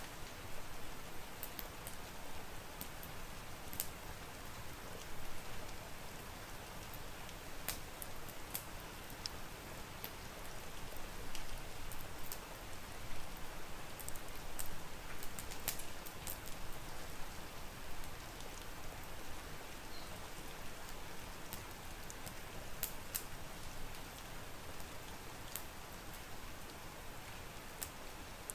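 Steady rain falling as an even hiss, with scattered sharp pops from a crackling wood fire in a fireplace.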